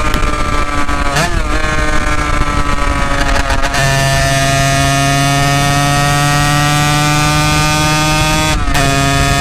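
Honda NSR250 two-stroke V-twin with Dog Fight Racing expansion chambers, accelerating through the gears. The exhaust pitch climbs steadily in each gear and breaks at the gear changes about a second in, near four seconds and near the end.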